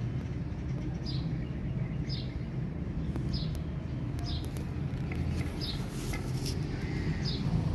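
A bird chirping, one short high chirp about every second, over a steady low rumble, with a few faint clicks around the middle.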